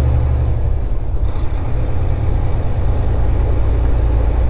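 Volvo 780 semi truck running down the highway, heard inside the cab: a steady low engine drone with road noise. The low drone softens about a second in and comes back near the end.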